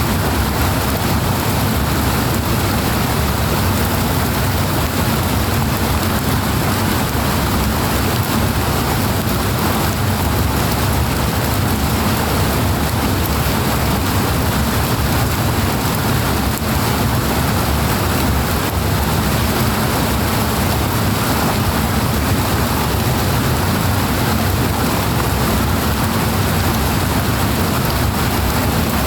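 Steady, loud rush of flowing water, an even unbroken roar with no distinct splashes or changes.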